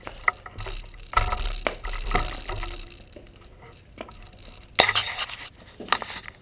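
Scattered clicks, clinks and knocks, with wind rumbling on the microphone during the first half.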